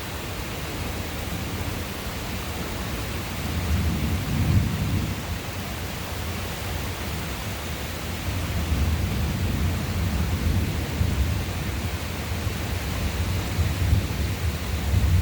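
Thunder rumbling over the steady hiss of rain. A low rumble swells about four seconds in, then a longer rolling rumble runs from about eight seconds onward.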